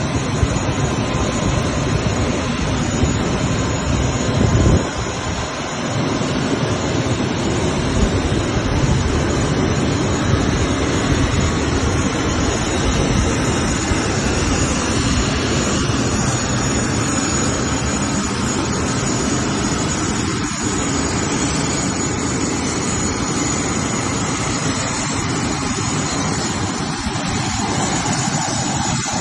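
Turbofan engines of a Challenger 601-3A/ER business jet running: a steady jet rush with a thin high whine. Briefly louder about four and a half seconds in, then a short dip.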